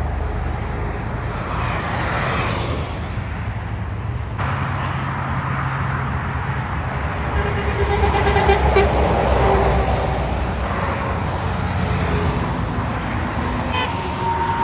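Heavy trucks running past on a road with a steady diesel rumble, and a vehicle horn sounding partway through.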